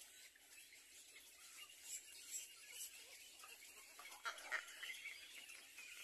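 Faint outdoor ambience with quiet, scattered bird chirps, a couple of them slightly louder about four and a half seconds in.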